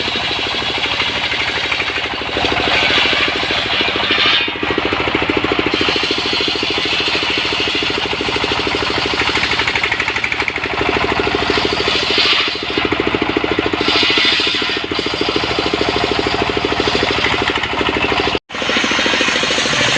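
Portable sawmill's engine running steadily and loudly, with its sound swelling and easing as the saw works. The sound breaks off for an instant near the end.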